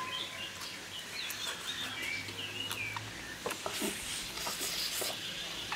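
Small birds chirping in a quick run of rising and falling notes during the first half. In the second half come a few short crunches as a crisp pan-fried flatbread is bitten and chewed.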